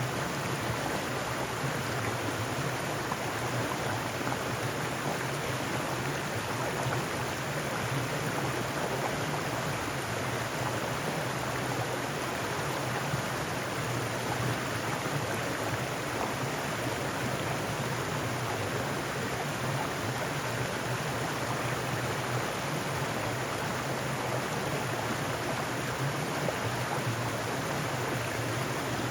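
Mountain stream rushing over rocks, a steady even wash of water.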